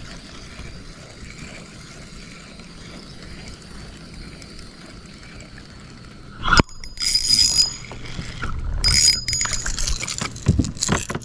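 Fish being landed on a kayak: steady water hiss, then a sharp knock about six and a half seconds in, followed by two short bursts of splashing.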